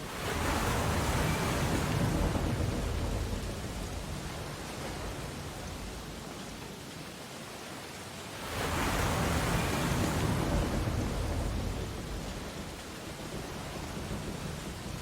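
Ocean waves breaking on a beach: two waves, one just at the start and another a little past halfway, each surging up quickly into a rush of surf and then slowly washing away.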